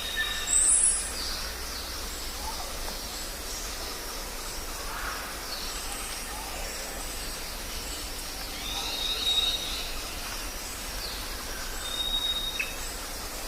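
Jungle ambience: various birds calling and whistling over a steady background hiss, with a loud high call about half a second in and held whistles near the middle and near the end.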